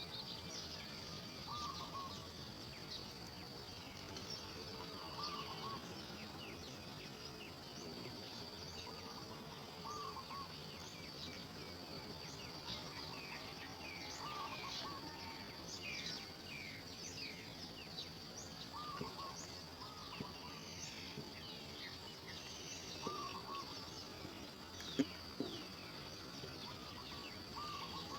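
Natural outdoor ambience: a steady high-pitched insect drone with many short bird chirps over it, and a short two-note bird call repeating every few seconds. Two sharp clicks sound about 25 seconds in.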